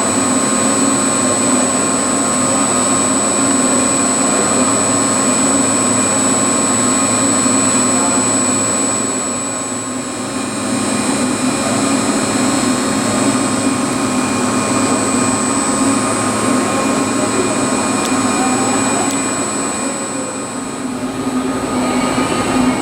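Steady loud hum of running machinery with several high, steady whining tones, dipping briefly twice, with people's voices faintly behind it.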